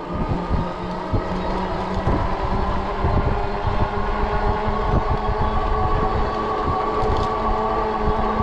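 Ecotric 20-inch folding fat-tire e-bike under way: the hub motor's steady whine over the fat tires rumbling and bumping on the path, a little louder from about three seconds in.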